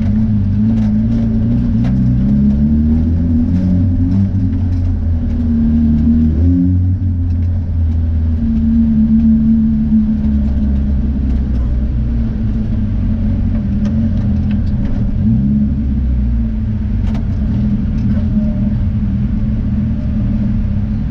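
Car engine running while driving slowly, heard from inside the cabin, its pitch rising and falling a few times as it speeds up and eases off.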